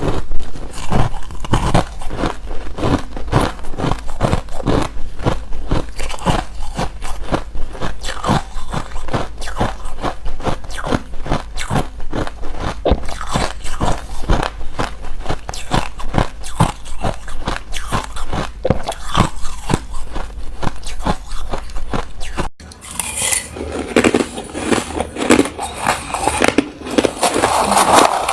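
Hard, refrozen crushed ice being bitten and chewed close to the microphone: dense, rapid crunches many times a second. About three-quarters of the way through the sound changes abruptly to sparser, duller crunching.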